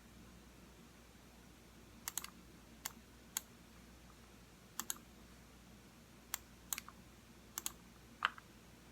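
Computer mouse buttons clicking: sparse single clicks and quick pairs, about a dozen starting some two seconds in, with pauses between and the sharpest click near the end.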